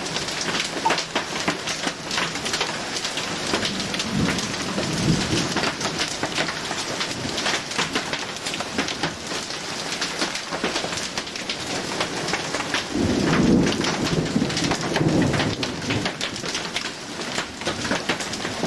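Heavy rain pounding down, dense with the patter of drops striking surfaces. Thunder rumbles twice, once about four seconds in and again, louder, about thirteen seconds in.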